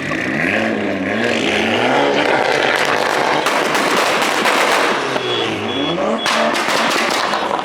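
Car engine revving up and down repeatedly over a loud rushing noise, with an abrupt break about six seconds in.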